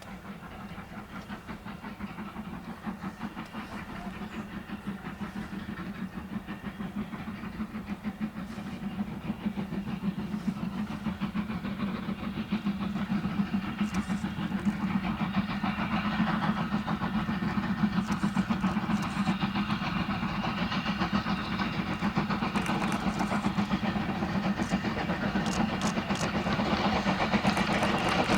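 Two steam locomotives double-heading a train, their exhaust beats in a fast, even rhythm and growing steadily louder as the train approaches.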